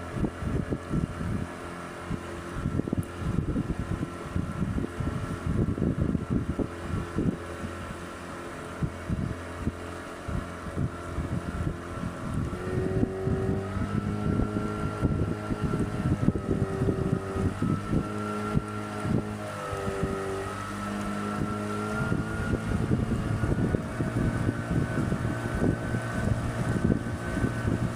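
A motorboat's engine running while the boat cruises, with wind buffeting the microphone. About halfway in, the engine note comes through clearer and rises and falls in pitch a few times.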